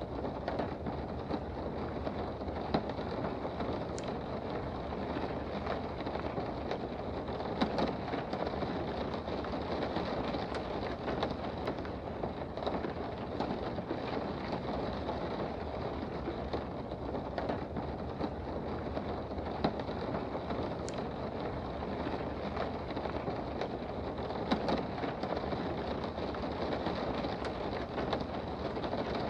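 Steady rain heard from indoors: a dense, even hiss with scattered sharper drop ticks.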